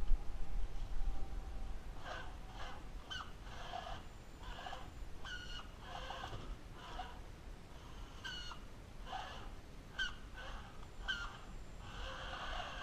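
Barnyard fowl calling in a run of short, repeated squawks and clucks, starting about two seconds in. A few low knocks come in the first second or so.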